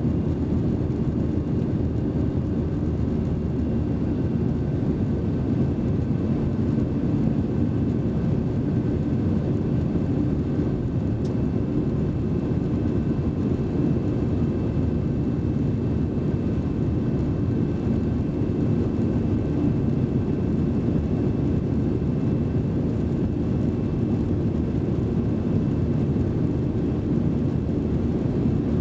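Steady jet engine and airflow roar heard from inside the cabin of an Airbus A320, deep and even, with faint steady whining tones above it.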